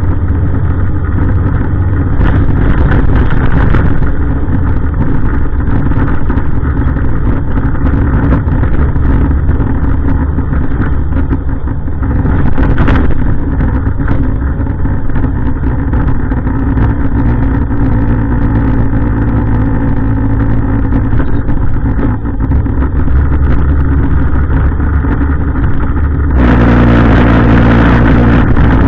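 Heavy refuse truck's diesel engine running steadily. Near the end a louder, hissier sound sets in over it.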